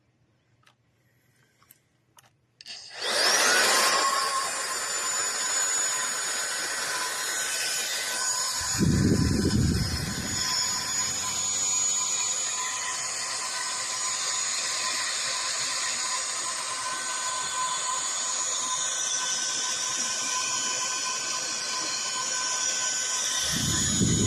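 After a few faint clicks, a SunSare X7A cordless stick vacuum switches on about three seconds in: its motor spins up with a quick rising whine and then runs steadily with a high-pitched whine. A lower rumble joins twice, about nine seconds in and near the end.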